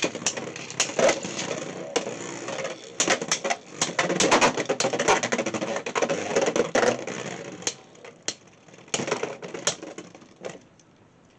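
Beyblade X spinning tops clattering and clashing in a plastic stadium with dense rapid clicking, thinning to a few scattered knocks after about seven seconds and then dying away.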